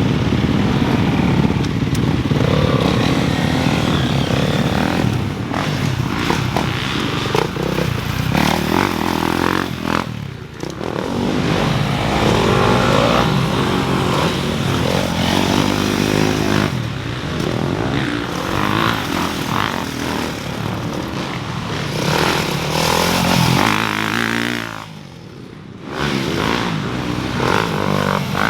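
Motocross dirt bikes running on the track, their engines revving up and down in pitch as they go by. There are short lulls about ten seconds in and again near the end.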